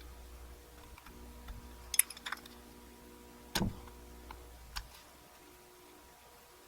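Small metal clicks and taps of a screwdriver working on a motorcycle carburetor: a few scattered clicks, the sharpest about two seconds in, and a duller knock a little past halfway.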